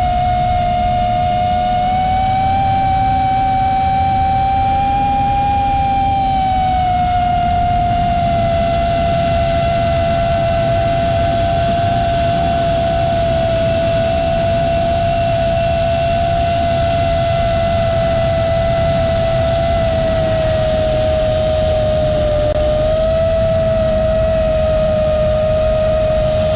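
Brushless motors of an Armattan Badger FPV quadcopter whining at a near-steady pitch that rises and dips slightly with throttle, over a heavy rumble of wind noise.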